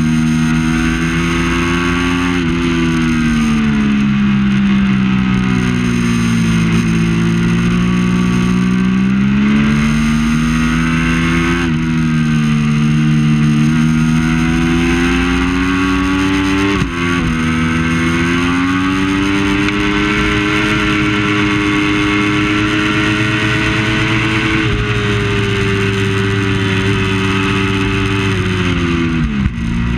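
Triumph Daytona 675's three-cylinder engine running hard at racing revs, its pitch swelling and falling with the throttle. A brief sharp dip in pitch comes about halfway through and another near the end.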